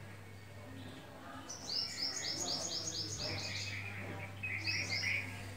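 A small bird calling: a rapid run of about ten high, falling notes, about five a second, starting about a second and a half in, followed by lower chirps and a short second run near the end. A faint steady low hum lies underneath.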